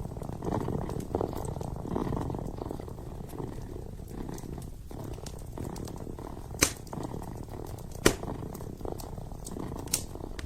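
Kitten purring steadily and close, in a low pulsing rumble, over a wood fire burning in a fireplace. The fire gives three sharp crackling pops in the second half.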